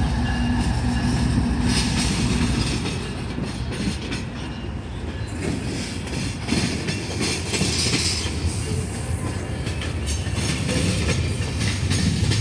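Slow freight train passing: a steady low rumble with the wheels clicking over the rail joints, and the locomotives' diesel hum fading as they pull away in the first couple of seconds. A brief high wheel squeal comes about eight seconds in.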